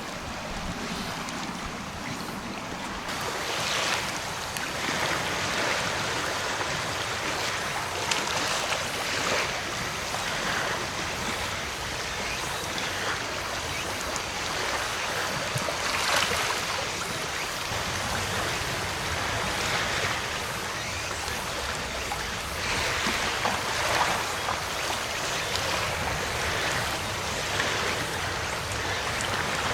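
Surf washing onto a beach: a steady rush of waves that swells every few seconds.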